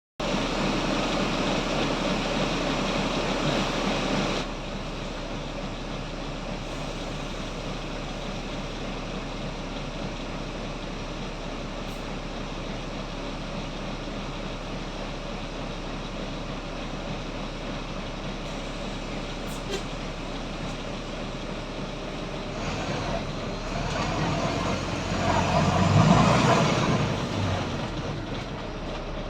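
Volvo B9TL double-decker bus with a Wright Eclipse Gemini body, its six-cylinder diesel running. A loud rushing noise for the first four seconds cuts off suddenly, then the bus runs steadily until it grows louder for a few seconds near the end, peaking and easing back.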